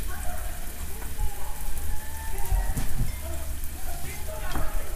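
Sausages and eggplant slices frying on an electric hot plate, a steady, even sizzle.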